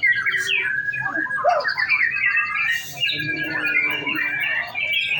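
White-rumped shamas (murai batu) singing, with several birds' rapid whistled phrases overlapping continuously.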